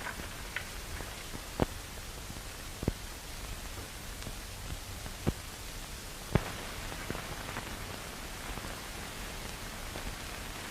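Steady hiss and crackle of an old optical film soundtrack, broken by four sharp clicks spread over the first two-thirds.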